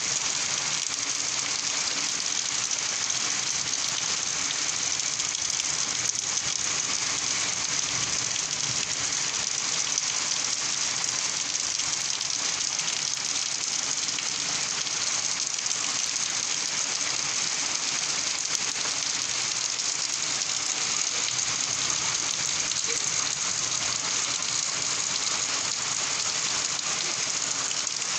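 Rain falling steadily: an even hiss of many drops, unchanging throughout with no thunder or single loud event standing out.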